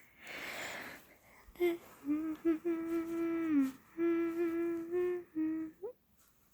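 A girl humming a short tune of long held notes without words, starting after a brief breathy rush of noise.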